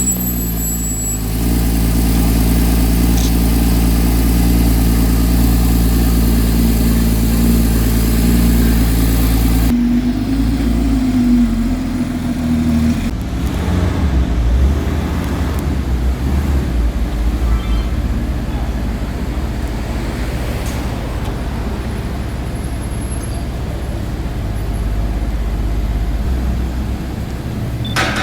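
Supercar engine idling loud and steady. The steady idle stops suddenly about ten seconds in and gives way to a lower, uneven engine rumble.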